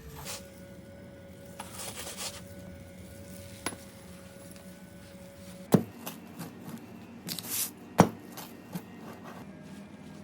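Pizza-making work: short scraping and rubbing sounds and two sharp knocks, the first a little over halfway through and the second about two seconds later, over a steady faint hum.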